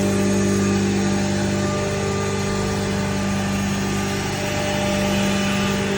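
CNC wood router machinery running steadily, a constant hum with no change in pitch.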